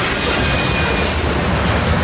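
Freight train's last covered hopper car rolling past close by, its wheels clacking over the rails. The rolling noise stays steady and loud as the car clears.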